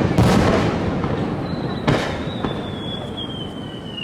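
Aerial fireworks shells bursting: two loud bangs, one right at the start and one about two seconds in, each dying away slowly. From about a second and a half in, a thin high whistle slowly falls in pitch.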